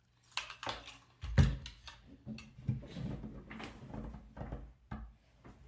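Handling noise from the robot's lower body section and its motor cables as they are worked into the cable clips: irregular clicks, knocks and rustles, with one louder knock about a second and a half in.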